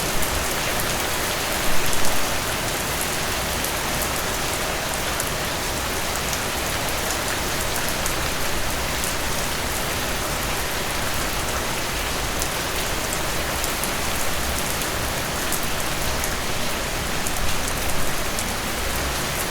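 Steady rain falling, an even hiss with scattered individual drops ticking. It swells briefly louder twice, about two seconds in and near the end.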